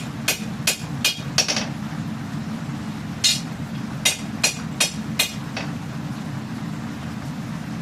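Hammer blows on steel at the anvil while forging a katana blade: four quick ringing strikes, a pause of about two seconds, then six more that stop a little past halfway. A steady low hum runs underneath.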